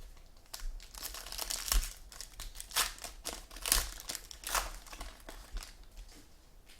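Trading card pack wrapper being torn open and crinkled by hand, a run of sharp crackling rustles that dies down near the end.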